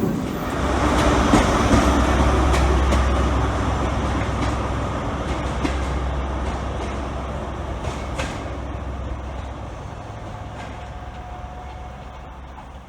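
Merseyrail PEP electric multiple unit moving through the platform: a low electric hum and wheel rumble that swell in the first second, then fade steadily as the train draws away, with a few sharp clicks from the wheels along the way.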